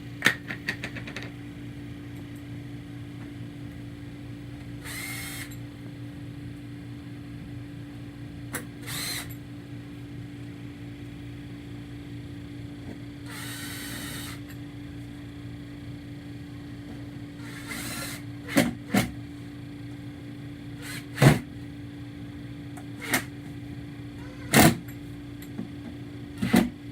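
A power driver spinning briefly several times, driving screws into the Blizzard machine's cover. Sharp clicks and knocks of metal parts being handled come in the second half. A steady low hum runs underneath.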